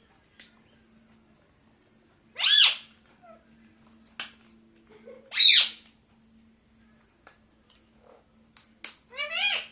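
Pet parakeet giving three loud squawks about three seconds apart, each call rising and falling in pitch. Small clicks come between the calls.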